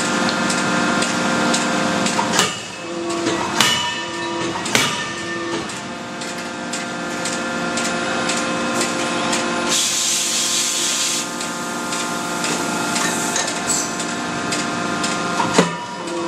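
CNC hydraulic die forging hammer line running with a steady, many-toned machine hum. Three sharp hammer blows come about a second apart in the first five seconds, and another comes near the end. A burst of hissing lasts about a second and a half midway.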